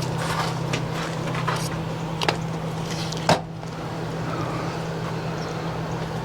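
A steady low machine hum with a few sharp clicks and knocks over it, the loudest about three seconds in.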